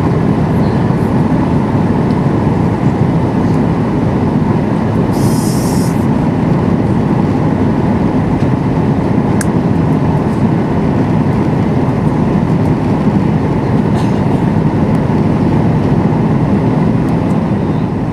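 Boeing 737-800 passenger cabin noise in flight: a steady, loud rumble of jet engines and airflow. A brief high hiss comes about five seconds in.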